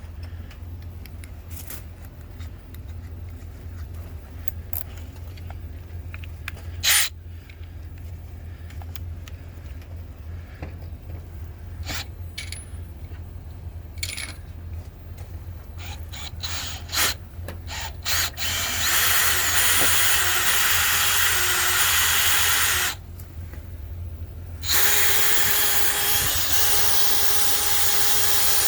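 Power drill fitted with a socket, driving bolts. Handling clicks and knocks come first, with one sharp click about seven seconds in. Near the end the drill runs twice, for about four and then about five seconds, as a steady whir with a short pause between.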